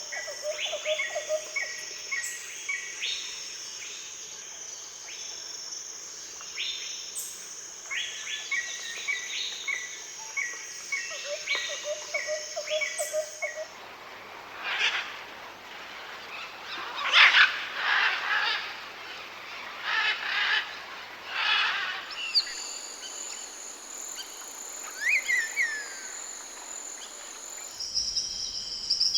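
Tropical forest bird sounds. First come repeated quick chirp series over a steady high drone. From about halfway there is a run of louder, rougher bird calls. Near the end a few gliding whistled notes sound over a high steady drone.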